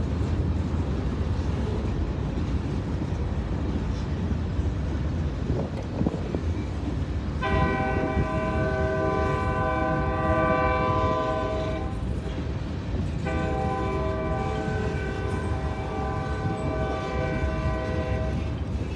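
Kansas City Southern train passing, its wheels and cars making a steady low rumble. About seven seconds in the locomotive horn sounds a long chord blast, then after a short break a second long blast that is still going at the end.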